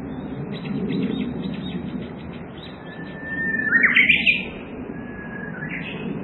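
Japanese bush warbler (uguisu) singing its 'hoo-hokekyo' song: a long level whistle, then a loud quick up-and-down flourish about four seconds in, followed by a second long whistle that breaks into a rising flourish near the end. A steady low background rumble runs underneath.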